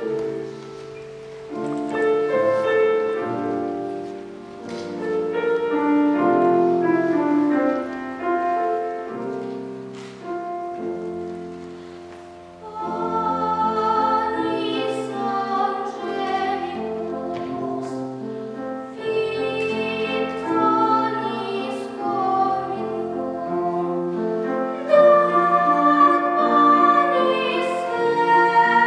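A child singing in classical academic style with piano accompaniment.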